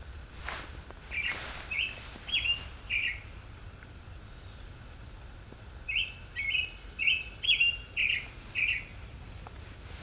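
A songbird singing: a short run of about four quick chirps, then after a pause a longer run of about seven.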